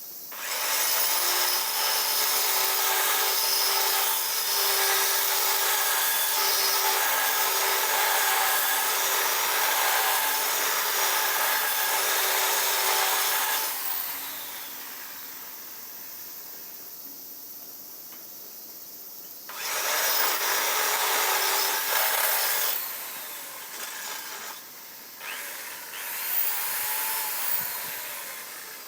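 An electric power tool cutting or grinding in runs: one long run of about 13 seconds, then a shorter one of about 3 seconds, then a few brief bursts near the end.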